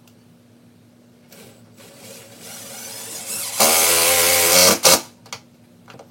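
Power drill spinning up and driving a self-tapping screw through drywall into a metal stud: a motor whine rising for a second or so, then running loud for about a second before it stops, followed by a few sharp clicks.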